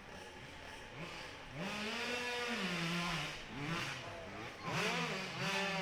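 Dirt bike engine revving hard up the hill, coming in about a second and a half in; its pitch climbs, drops and climbs again as the rider works the throttle.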